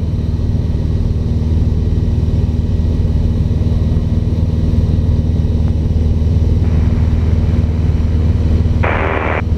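Cessna 150's four-cylinder Continental O-200 engine and propeller droning steadily in cruise flight, heard from inside the cabin. Near the end a brief burst of radio hiss comes in over the drone.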